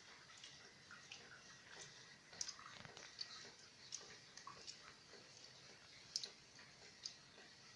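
Faint rain: scattered drops tapping at irregular intervals over a soft hiss. The sharpest taps come about two and a half and six seconds in.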